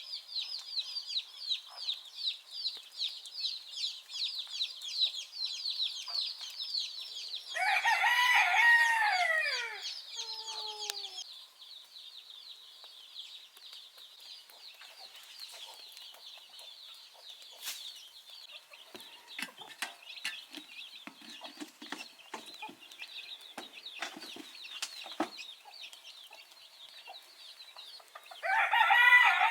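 Rooster crowing, once about eight seconds in and again at the very end, over a fast run of high chirping, about four chirps a second, that fades out after about eleven seconds.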